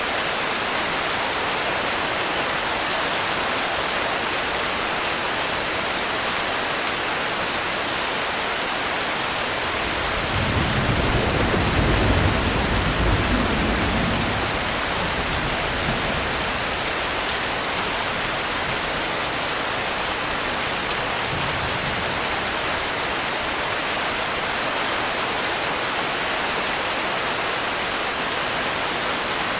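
Steady heavy rain, an even hiss. About a third of the way in, a low rumble of distant thunder swells for several seconds and fades away.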